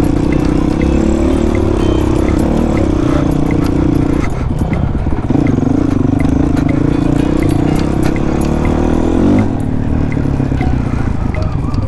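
Honda CRF450 dirt bike's single-cylinder four-stroke engine running under throttle on a trail ride. The engine note dips about four seconds in, picks back up, then climbs with a rev around nine seconds in before easing off.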